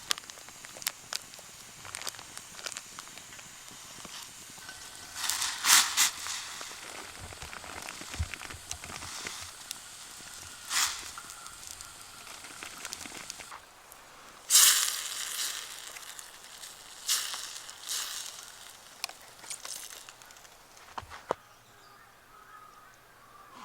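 Wood campfire crackling, with sharp irregular pops throughout. Several louder hissing rushes, each about a second long, break in around six, fourteen and seventeen seconds in.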